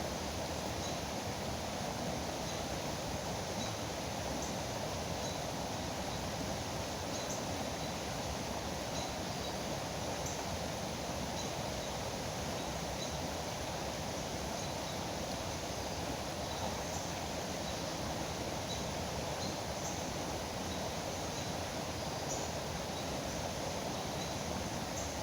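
Steady rushing of river water, with faint short bird chirps scattered over it.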